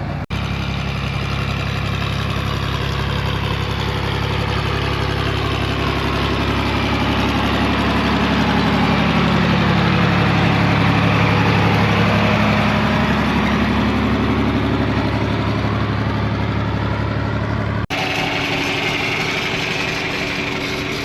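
John Deere 4000 tractor engine running under way as it pulls the disc mower, growing louder to a peak around the middle and then easing off, as if driving past. The sound breaks off abruptly about 18 seconds in and resumes at a lower level.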